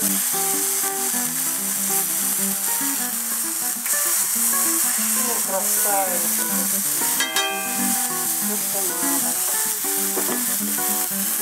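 Beef burger patties sizzling steadily in hot oil in a pan as they sear to build a browned crust, under background music with a melodic line and a plucked note about seven seconds in.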